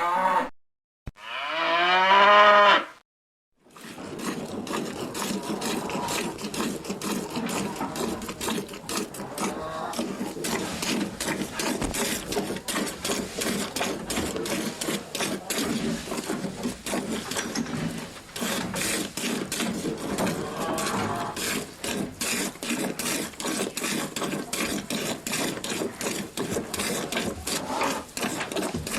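Cattle mooing: a call ends just as the sound begins, then one loud, drawn-out moo follows about a second in. After a short silence, a dense, rapid crackle of clicks and rustling takes over and continues, with a faint moo heard about two-thirds of the way through.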